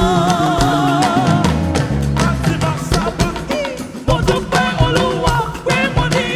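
Gospel worship band playing with drums and bass under a singer, who holds one long note with vibrato at the start and comes back in with more sung lines after a short instrumental stretch.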